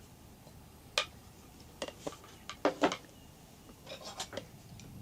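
A series of light, sharp clinks and taps of small hard objects knocking together, about a dozen in irregular clusters.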